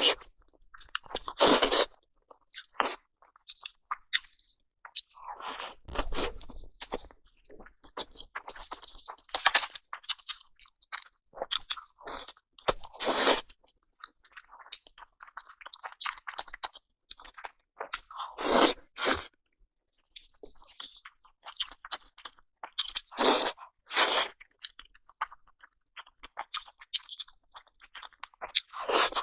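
A person eating crunchy food: loud crunching bites every four or five seconds, with softer chewing crackles between them.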